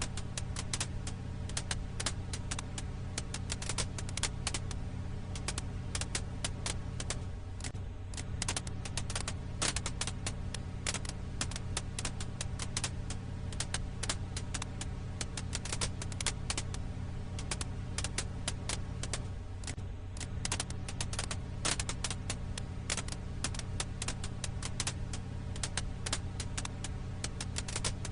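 Firewood crackling: many irregular sharp pops and snaps over a steady low hum.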